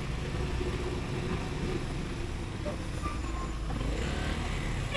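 Motorcycle engine running steadily as the bike rides through city traffic, with wind and road noise over it.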